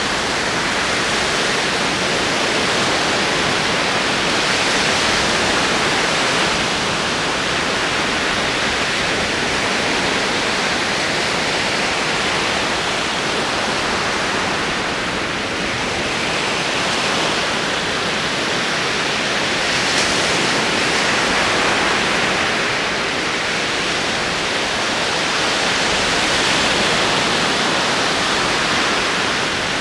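Ocean waves rolling onto a shore: a continuous wash of surf that swells and eases gently every several seconds.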